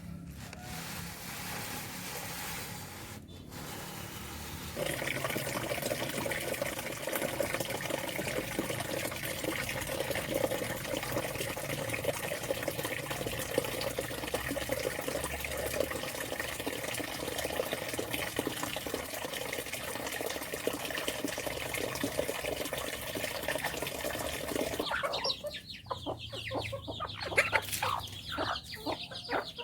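A steady rushing outdoor noise for most of it, then chickens clucking in the last few seconds.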